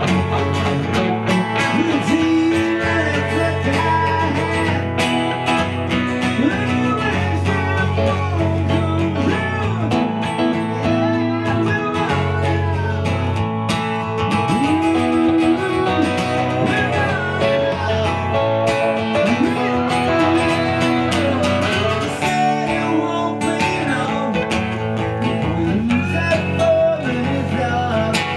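Live band music: a guitar-led country-blues song played without a pause, with bending guitar notes.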